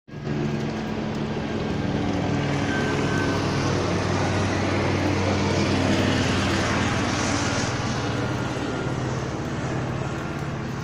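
Helicopter flying overhead: steady chop of the rotor blades with the low hum of its engine, loudest about six seconds in and easing off slightly toward the end.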